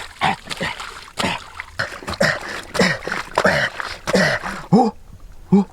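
An animal's short repeated calls, about two a second, each rising and falling in pitch, with noisy hiss between them.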